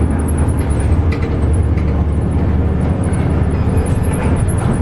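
Steady low rumble of a moving vehicle, most likely engine and road noise inside a bus, with a faint high chirping above it.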